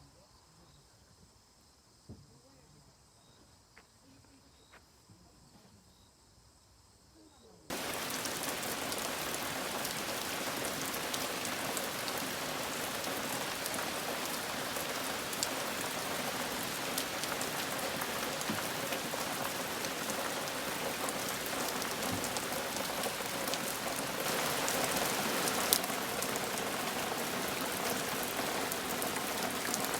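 Near silence with a few faint ticks, then, about eight seconds in, rain starts suddenly. It falls steadily on taro leaves, a constant patter with scattered individual drop hits.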